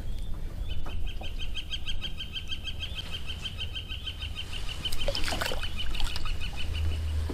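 A bird calling: a steady run of short, high, evenly spaced notes, about seven or eight a second, kept up for some six seconds.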